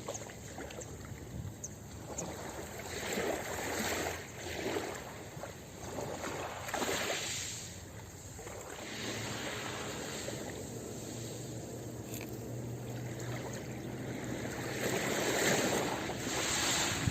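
Ocean surf washing onto a beach: a steady rushing hiss that swells and falls as waves break, loudest near the end.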